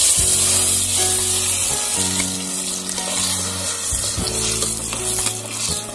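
Ground tomato paste hitting hot oil and fried garlic in an aluminium pot: a loud sizzle, strongest at first and easing off as it goes on frying. A steel ladle stirs it through the pot.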